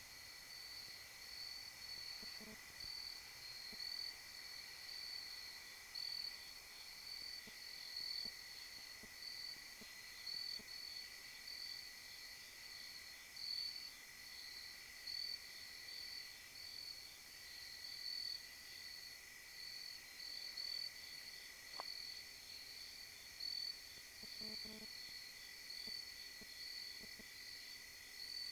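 Night insects, crickets, chirping: a high chirp repeating evenly, a little over once a second, over a continuous thinner trill.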